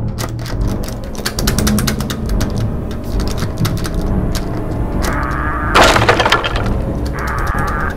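Mechanical film sound effects: a quick run of irregular clicks and cracks, then a loud crashing burst a little before six seconds in, over a low steady rumble.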